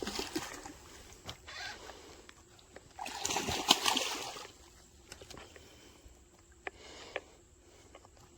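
A hooked catfish splashing and thrashing at the water's surface as it is reeled in, a burst of splashing about three seconds in, followed by a few faint clicks.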